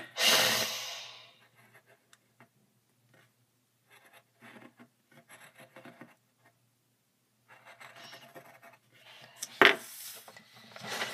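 Drawing strokes on paper: short, faint scratching and rubbing sounds in irregular runs. A loud rushing burst about a second long comes at the very start, and a sharper knock comes near the end.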